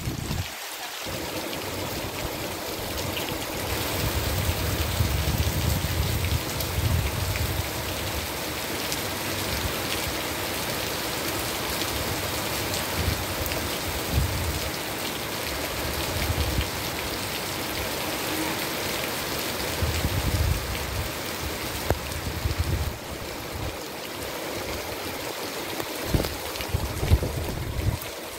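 Heavy tropical rain pouring steadily onto palm, mango and banana leaves. Under it, uneven low gusts of wind buffet the microphone, with a couple of sharper gusts near the end.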